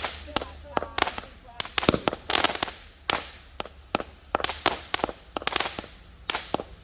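A 100-shot colour-star firework cake firing in quick succession: sharp bangs at about two to three a second, some trailed by a brief hiss.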